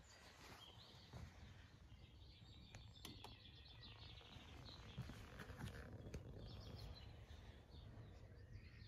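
Faint small-bird song, several short twittering phrases over a low, steady background rumble.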